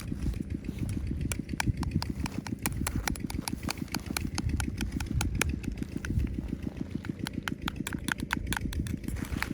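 A small engine running steadily with a rapid, even knocking beat, overlaid with irregular sharp clicks and rattles.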